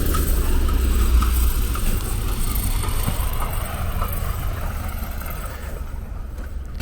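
A fire engine's motor running close by, a steady low rumble that eases off toward the end.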